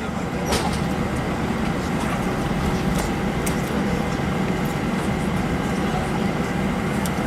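Steady rumble and hiss inside the passenger cabin of an Airbus A320 taxiing in after landing, its IAE V2500 engines at idle, with a few light clicks from the cabin.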